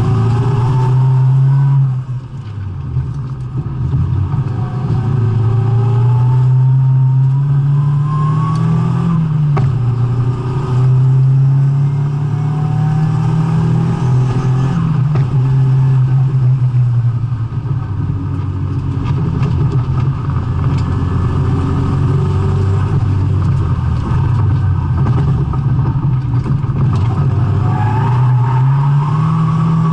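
Nissan S14 200SX drift car's engine revving hard through a lap. Its pitch climbs steadily under acceleration, drops sharply at each gear change or lift-off, and rises again several times.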